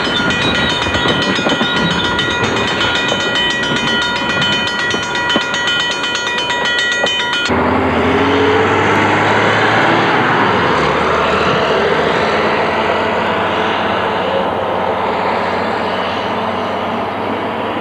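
Freight cars rolling past at close range, with light clicking from the wheels and a steady high-pitched squeal. About seven seconds in, this gives way to a lower, steady rumble as the train pulls away down the line.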